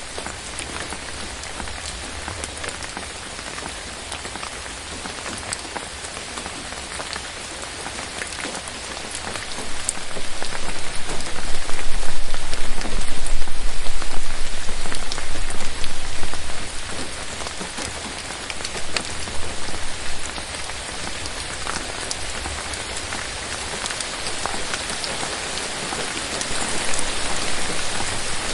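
Steady rain falling in a forest, with many separate drop hits on the leaves. About ten seconds in it grows heavier and louder, with a low rumble, for several seconds, then eases back to the earlier steady level.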